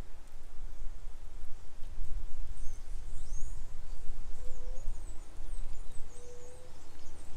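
Outdoor ambience: faint high bird chirps scattered throughout, and two short low hooting calls a few seconds in, over a steady low rumble.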